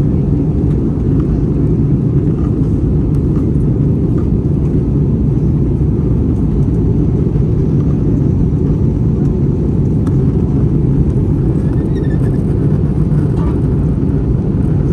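Steady low rumble of airflow and engine noise inside the cabin of an Airbus A321-200 in flight, with IAE V2500 engines.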